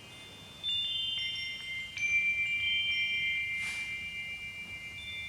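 High chimes struck a few times, their clear notes ringing on and overlapping as a soft background for relaxation.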